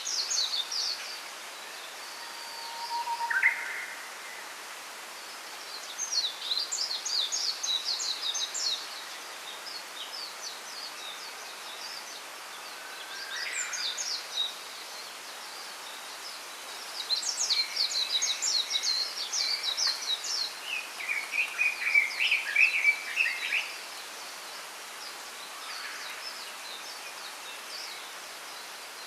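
Small birds singing in a bamboo grove: several bursts of quick, high chirping phrases a few seconds apart, with a lower chirping phrase near the end. A steady background hiss runs under the song.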